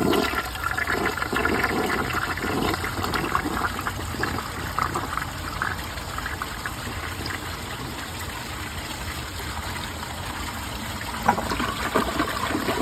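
1968 American Standard Cadet toilet flushing: a rush of water that is loudest in the first few seconds and then eases off to a lower, steady running-water sound. A few short knocks come near the end.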